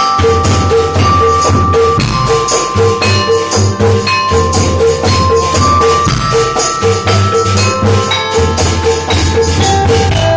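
Percussion group rehearsing a song: a dense, fast, steady beat of drums and small percussion under a melody of held notes.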